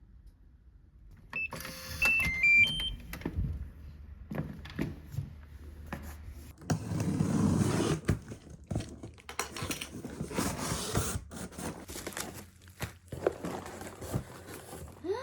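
A quick run of short electronic beeps stepping up and down in pitch, then scattered clicks, knocks and rustling of objects being handled.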